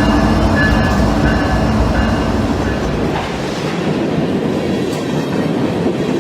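Dubbed-in sound effect of a full-size train rolling by, with a low rumble and wheels running on the rails. About three seconds in, the low rumble fades and the wheel-and-rail noise carries on.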